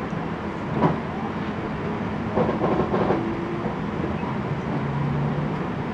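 Cabin noise of an ex-Kintetsu 16000 series electric train on the move: the steady rumble of the wheels on the rails, with a sharp clack about a second in and a short cluster of knocks around the middle.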